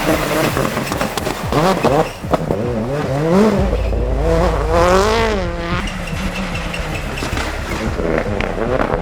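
Rally cars driven hard on a special stage, engines revving up and dropping back through gear changes, with sharp crackles from the exhaust and gravel. The sound changes abruptly about three and a half seconds in, where one car gives way to another.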